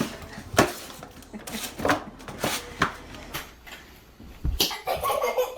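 A string of sharp knocks and clatters at irregular intervals, several in a few seconds.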